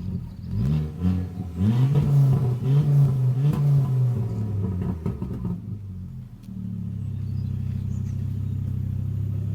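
Ford Focus ST exhaust, fitted with a Mongoose system and a Guerrilla Bypass valve, revved in several quick blips and a short hold, then settling into a steady idle.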